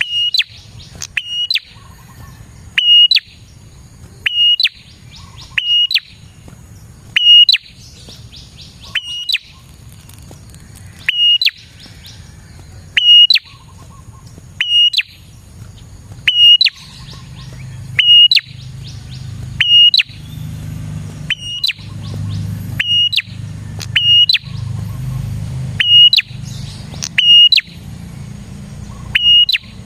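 Prinia (prenjak) calling over and over: a sharp, ringing chirp about every one to two seconds, with fast ticking trills in between, a call used to lure prinias. A low rumble in the background grows louder in the second half.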